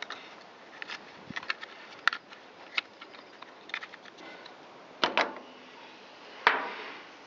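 Scattered small clicks and knocks of hand tools and small chainsaw parts being handled as the carburetor base plate is taken off, with a louder clatter about five seconds in and a sharp knock about six and a half seconds in.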